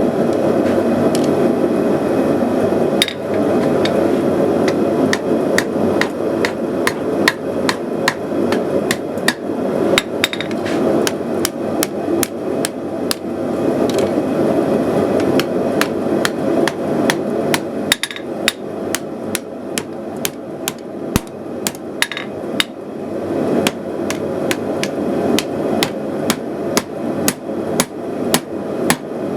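Hammer blows on hot 3/8-inch steel against an anvil, often two or three a second, with short pauses. Under them runs the steady rushing of a gas forge burner.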